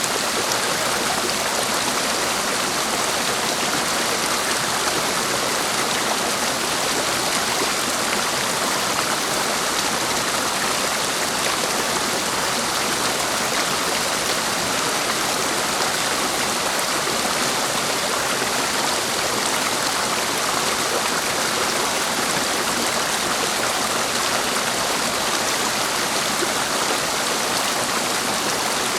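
Clear stream water flowing steadily over its bed, an even, unbroken rush with no separate events standing out.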